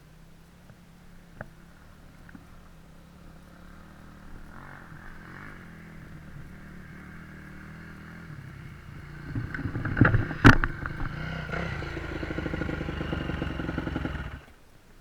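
Dirt bike engine running, faint at first and growing louder, with a couple of sharp knocks about ten seconds in. The sound cuts off abruptly just before the end.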